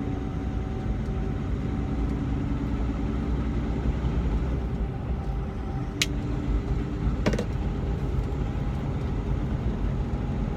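Truck engine and road noise heard from inside the cab while driving: a steady low rumble with two sharp clicks about six and seven seconds in.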